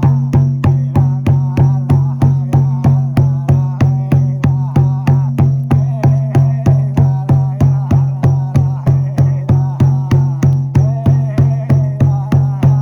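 Frame drum (buben) beaten at a steady pulse of about three strokes a second, over a continuous low drone and a wavering higher melodic line.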